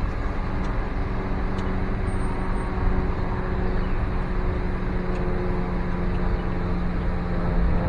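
Car cabin noise while driving slowly: a steady engine and road rumble with a low, even hum.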